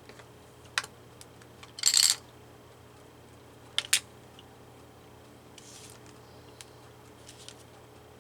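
Small handling sounds of paper cut-outs and craft tools on a table: a sharp click, a short papery rustle about two seconds in, then two quick clicks about four seconds in.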